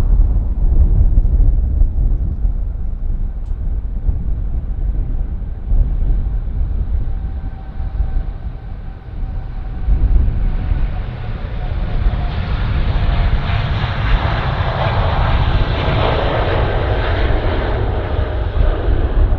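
Jet airliner's engines passing close by, growing louder from about halfway through, with faint whining tones over the jet noise. A low wind rumble on the microphone runs underneath.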